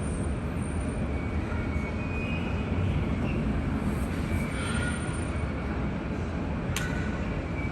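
Airport ambience: a steady low rumble of jet aircraft engines with faint high whines coming and going, and one sharp click near the end.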